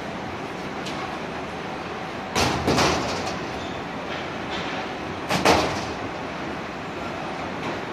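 Suitcases landing hard during rough baggage handling: two loud thuds about three seconds apart over a steady machine-like rumble.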